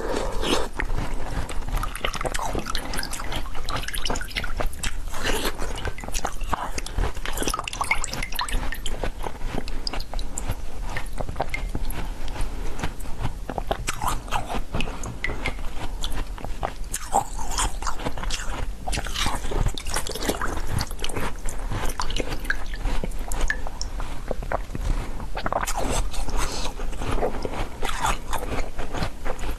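Close-miked biting and chewing of a pink jelly, with a dense run of wet clicking mouth sounds.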